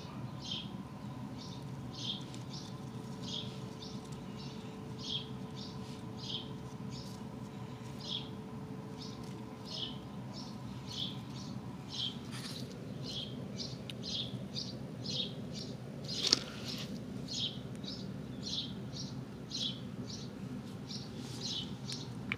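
A small bird chirping over and over, about two short downward-sliding chirps a second, over a steady low background rumble. A single sharp click about sixteen seconds in.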